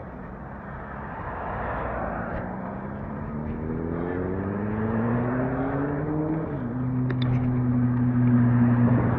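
A vehicle's engine accelerating, its pitch rising for a few seconds, then dropping suddenly about six and a half seconds in at a gear change and holding steady as it gets louder. Steady road noise runs underneath.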